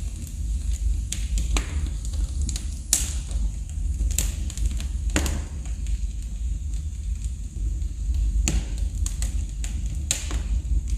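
Wood fire crackling in a fireplace: sharp pops and snaps every second or so, a few louder ones among them, over a low steady rumble.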